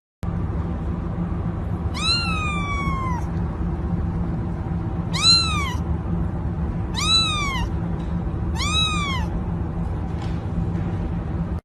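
Domestic cat meowing four times, each meow rising then falling in pitch, the first one longer, over a steady low hum.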